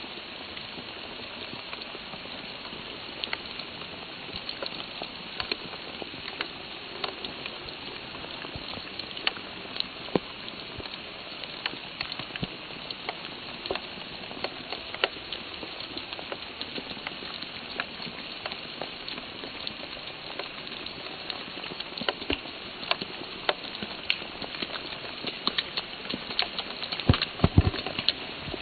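Steady rain falling: an even hiss with many scattered sharp ticks of raindrops striking close by, and a few louder knocks near the end.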